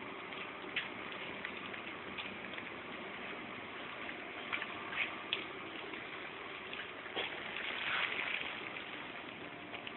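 1947 Cadillac Fleetwood Sixty Special engine idling: a steady hushing exhaust sound that grows louder for a moment about eight seconds in, with a few short clicks.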